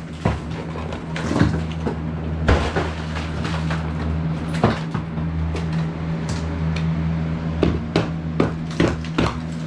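Repeated knocks, scrapes and clatter of wall demolition as old wall material and wire mesh are torn out from the studs, over a steady low hum.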